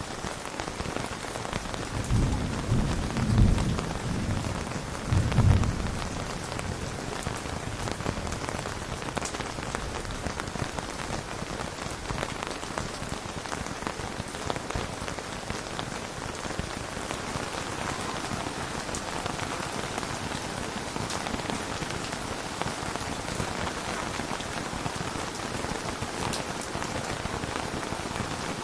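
Steady rain falling, with a low rumble of thunder about two seconds in that swells twice over the next four seconds before fading back into the rain.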